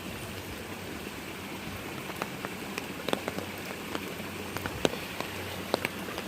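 Runoff water from a heavy downpour running steadily with an even rushing hiss, and scattered sharp ticks through it.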